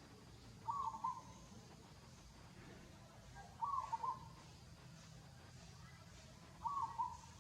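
Three short animal calls, one about every three seconds, over a faint steady low hum.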